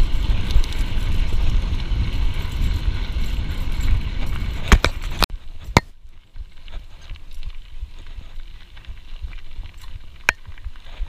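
Riding noise picked up by a GoPro on a mountain bike on a trail: a loud rumble of wind and rough ground that drops away suddenly about five seconds in. Sharp clicks and ticks come through, from the Camelbak strap and drinking hose knocking against the camera.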